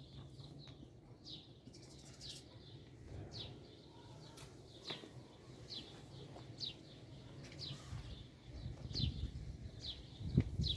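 A small bird repeating short, falling chirps about once a second, over a low rumble, with a few thumps near the end.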